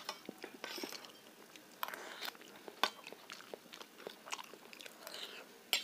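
Close-miked chewing and wet mouth smacks of a person eating soft suji shira (sweet semolina halwa), with a few sharp clicks scattered through.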